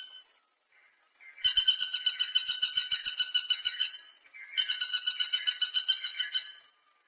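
Woodpecker calling: two bouts of rapid, evenly repeated high notes, each lasting about two seconds, with a short break between them.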